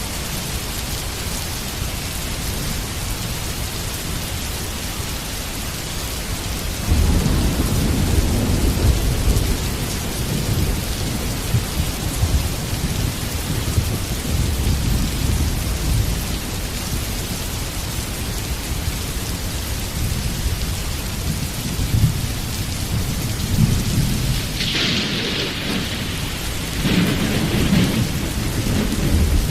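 Heavy rain falling steadily, with low rolling thunder. One rumble comes in about a quarter of the way through and lasts several seconds, and another builds near the end.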